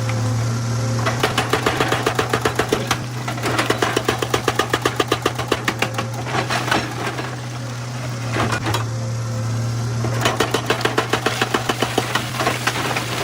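Excavator's diesel engine running steadily under several bursts of rapid, even hammering, about eight blows a second, from a hydraulic rock breaker striking stone.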